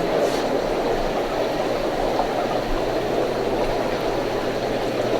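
Steady bubbling and rushing of aquarium tank filters and air pumps, with a low electrical pump hum underneath.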